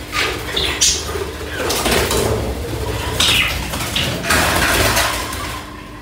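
A pet bird chirping briefly a few times over rustling and knocking as a long stick is moved about, with a faint steady hum underneath.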